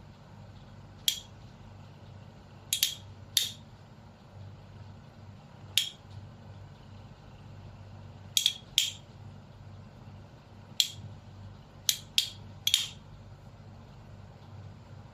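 Handling of a toy spinning top's small hard parts: about eleven sharp clicks at irregular intervals, some in quick pairs, over a low steady hum.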